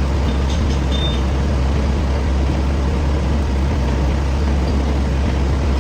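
Lathe running steadily with a constant low hum and an even machine noise, with a few faint high ticks in the first second.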